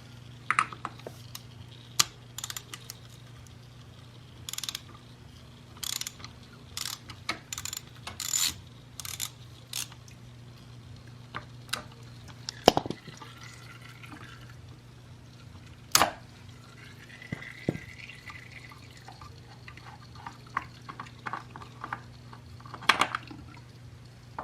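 Engine oil dripping and trickling from a 2005 Yamaha R6 into a drain pan, with scattered sharp clicks and clinks of tools as the oil filter comes off, over a steady low hum.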